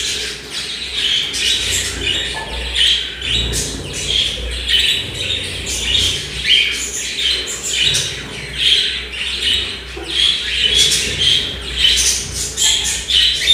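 Caged birds squawking and chirping, with short calls coming several times a second.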